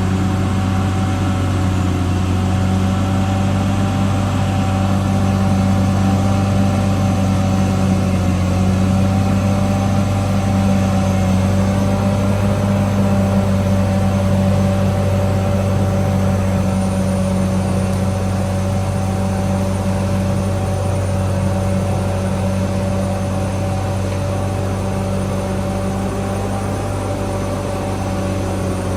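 CAT D6R XL bulldozer's diesel engine running steadily at a nearly constant speed, with a deep hum and fainter higher whining tones above it.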